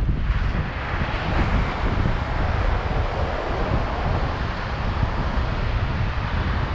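Wind buffeting the microphone during a bike ride, a heavy unsteady rumble. A steady rushing hiss lies over it, swelling from the start and easing near the end.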